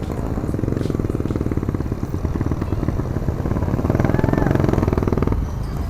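A road vehicle's engine running close by with a fast, even pulsing beat. It grows louder around four seconds in and then drops away suddenly near the end.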